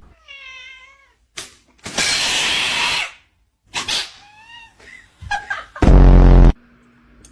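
A cat meowing in short calls, with a loud noisy burst about two seconds in. Near the end comes a very loud, low buzzing sound.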